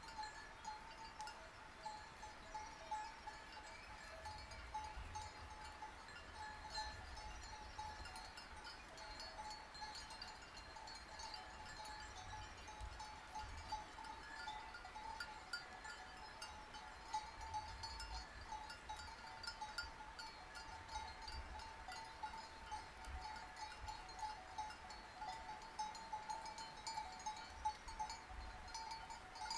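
Sheep bells clanking continuously and irregularly as a flock moves about, their ringing tones overlapping, with a faint low rumble underneath.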